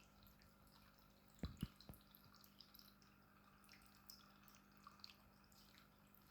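Small decorative fountain dripping and trickling faintly, with scattered light drips, a faint steady hum, and two soft thumps about a second and a half in.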